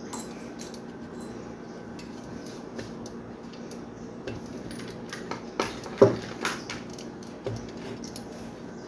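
Small metal parts and a hand tool clicking and clinking while a blender base is reassembled, with a sharper knock about six seconds in.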